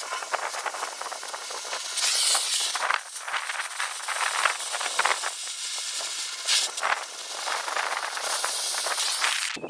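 Cutting torch cutting through steel: a steady hiss from the cutting jet with crackling and spattering of molten slag, which cuts off suddenly near the end.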